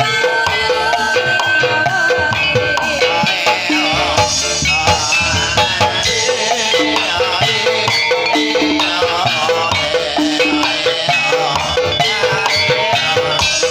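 Live Javanese ensemble music accompanying a kuda kepang horse dance: struck pitched mallet and gong-chime percussion repeating an even note pattern over drums.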